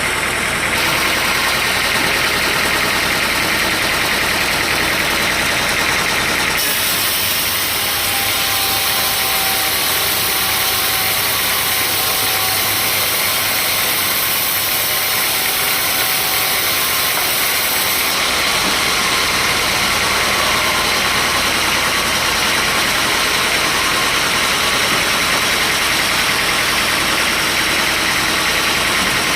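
Sawmill machinery running steadily and loudly, its sound changing abruptly about a quarter and again about two-thirds of the way through.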